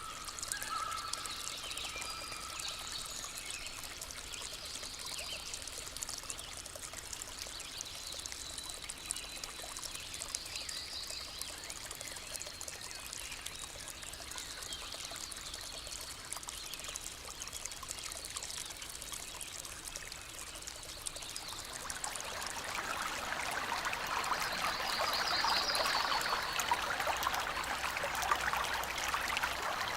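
Running water of a stream, trickling and splashing steadily and growing louder about two-thirds of the way in. Short high trills come and go over it.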